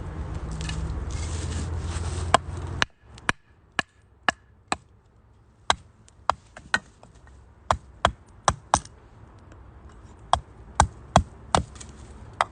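Firewood crackling as it burns in a UNIFLAME Nature Stove Large, with about fifteen sharp, irregular pops and snaps, some loud. A low rumble fills the first few seconds and stops abruptly.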